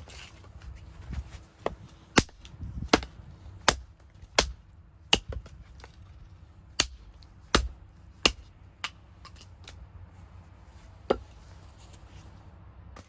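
Firewood being chopped: about ten sharp, loud blows at a steady, unhurried pace, then one last blow after a short pause.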